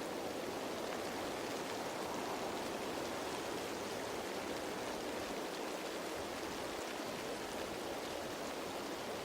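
Steady rain falling on leaves: an even, unbroken hiss with no separate drops standing out.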